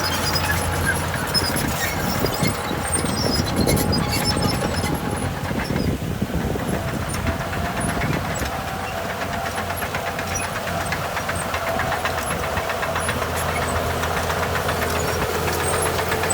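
Heavy diesel earthmoving machinery working: a steady engine note with a held whine and a light metallic clatter.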